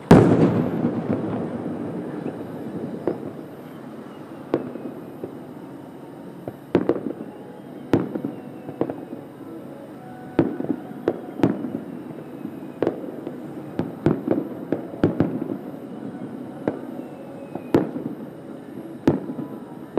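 Aerial firework shells bursting about a kilometre away: one big boom right at the start trailing off in a long rolling rumble, then a string of sharp reports, some spaced out and some in quick clusters.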